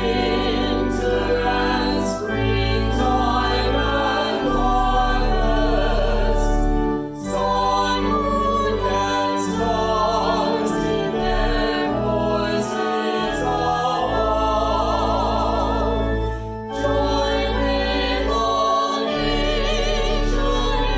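A hymn sung by voices over organ: long held chords with a sustained deep bass, broken by two brief pauses between phrases.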